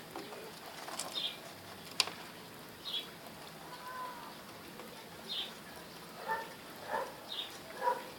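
Birds at a rooftop feeder: short high chirps every second or two, two sharp taps early on the second and third second, and a few lower calls near the end.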